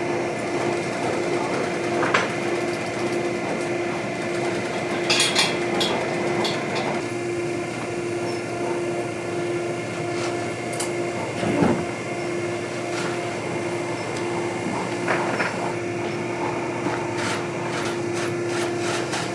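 Steady motor hum of shop machinery, with scattered clicks and knocks of tools being handled.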